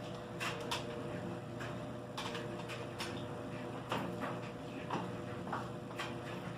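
Footsteps: short sharp taps at an uneven pace, about one to two a second, over a low steady hum.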